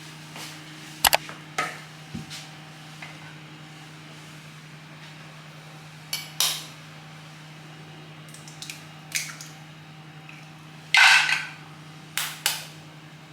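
Dishes and utensils clinking and knocking now and then, with a few louder clatters, the loudest about eleven seconds in, over a steady low hum.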